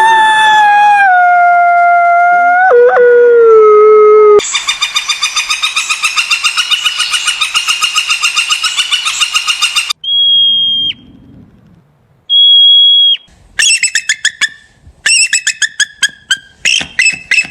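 A run of animal calls, one after another. First comes a long held call that slides down in pitch in steps. Then a fast, even trill lasts several seconds, followed by two short clear whistles with a gap between them, and finally quick bursts of chirps.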